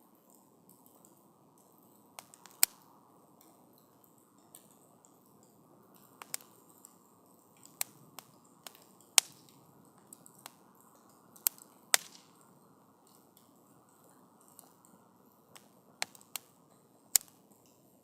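Wood campfire burning with a low steady hiss and irregular sharp crackles and pops from the burning wood, about a dozen in all.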